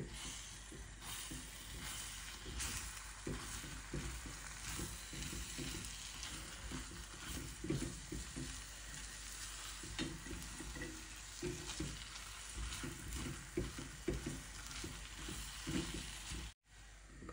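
Egg sauce frying in an enamelled pan, sizzling steadily, while a silicone spatula stirs and scrapes through it with irregular soft knocks against the pan. The sound cuts off shortly before the end.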